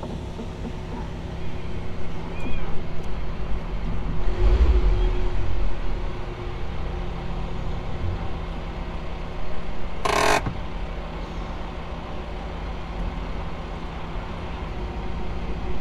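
Vehicle engines idling with a steady low hum, heard from inside a car on a river cable ferry. A deeper rumble swells about four to six seconds in, and a short rush of noise comes about ten seconds in.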